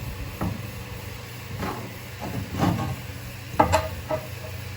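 A few short knocks and scrapes, about one a second, as metal brush hog parts are handled during disassembly, over a steady low hum.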